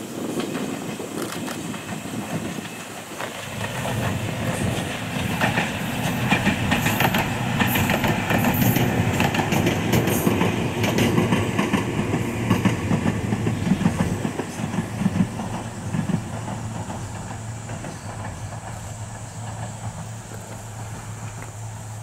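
Ohmi Railway 300-series electric train (set 302F) passing on jointed track, its wheels clattering over the rail joints. It grows louder a few seconds in, is loudest for about ten seconds in the middle, then fades away.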